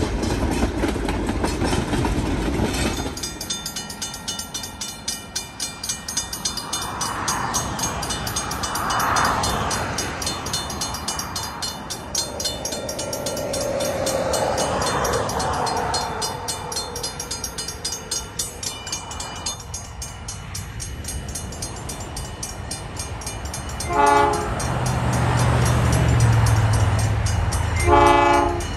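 Napa Valley Wine Train passing on the rails with a steady clatter. Near the end the diesel locomotive gives two short horn blasts, about four seconds apart, with the engine's low drone growing louder between them.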